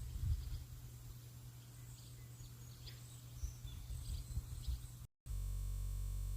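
Faint bird chirps over a low, uneven rumbling background. About five seconds in the sound cuts out for a moment, then returns as a steady low hum.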